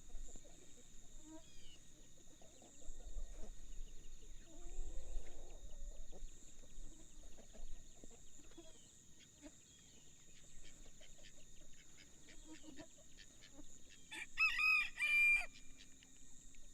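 A rooster crows once near the end, a call of about a second and a half, the loudest sound here. Before it there are scattered light clicks and knocks.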